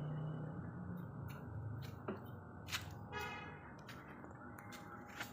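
Steady low rumble, with a few short clicks and a brief faint chirping about three seconds in.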